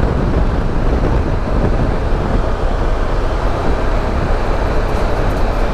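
Motorcycle on the move at a steady speed: a constant rush of engine and wind noise, heaviest in the low end.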